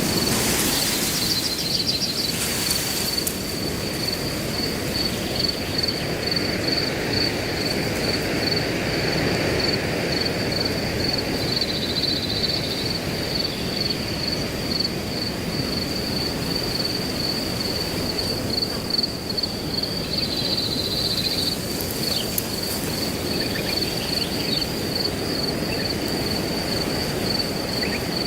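Wind blowing steadily through grass, with a cricket chirping in a fast, even pulse throughout. A few brief high sounds come near the start and again about two-thirds through.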